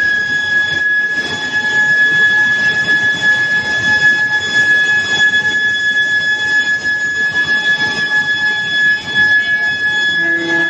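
Square steel billet induction preheating furnace running: a steady, loud high-pitched whine held at one pitch with fainter overtones, over a rough, even mechanical noise.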